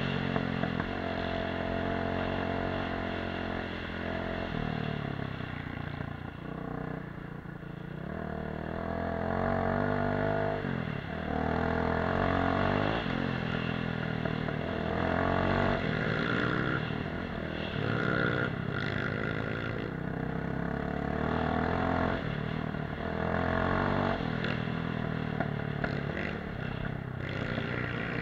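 Off-road motorcycle engine running under way, its pitch climbing and falling again every few seconds as the throttle is opened and closed over rough ground.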